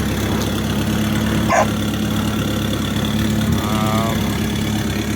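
Turbocharged 1.8-litre Volkswagen four-cylinder engine idling steadily after a cold start.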